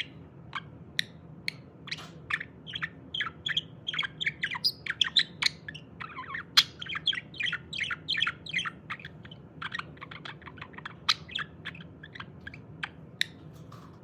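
Budgerigar chattering and warbling: a rapid, continuous string of short chirps and squeaky notes.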